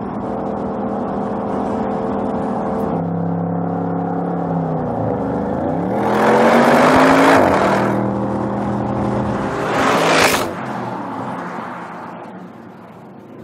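Audi RS 6 Avant's 4.0-litre twin-turbo V8 running at a steady pitch, then its revs dip and climb again into a loud burst of acceleration about six seconds in. A sharp loud peak comes near ten seconds in, then the sound fades away as the car pulls off.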